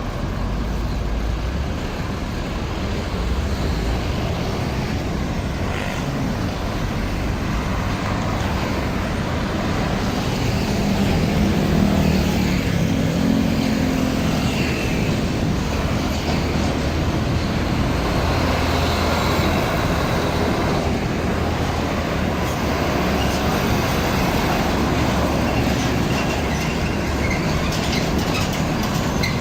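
Heavy trucks passing on a road: a steady rumble of engines and rattling trailers that swells about eleven seconds in as a heavy vehicle goes by.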